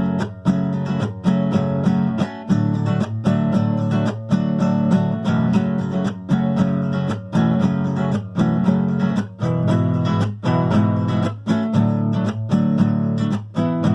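Acoustic guitar strummed in a steady, even rhythm, chords ringing on between strokes, with no singing.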